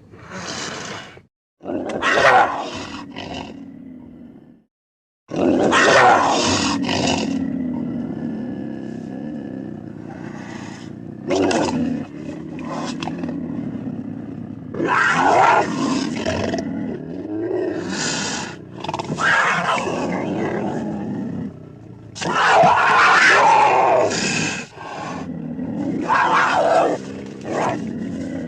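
A string of loud beast roars and growls used as sound effects for a werewolf character, each lasting one to three seconds. There is an abrupt dead-silent gap about five seconds in.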